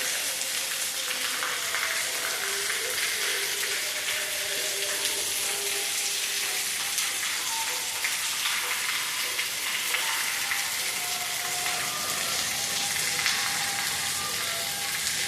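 Steady rain pattering, a dense even hiss of many small drop impacts. A few faint short tones sound behind it.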